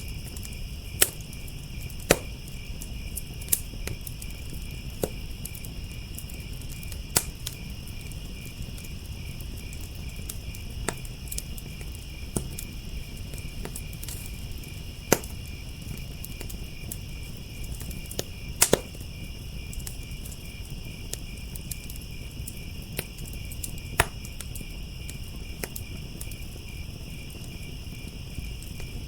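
Wood fire crackling with sharp irregular pops, over a steady chorus of crickets chirping and a low rumble of the flames.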